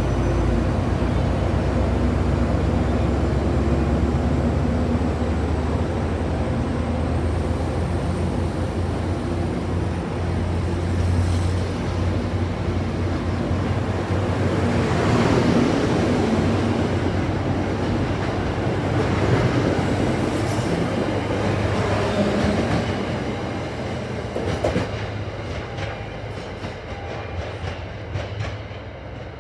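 MBTA commuter rail train passing close by: a steady diesel locomotive drone with the coaches' wheels clattering over the rail joints. It fades away over the last few seconds.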